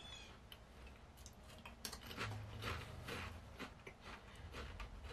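A potato chip being bitten and chewed close to the microphone: a run of faint, irregular crunches and crackles.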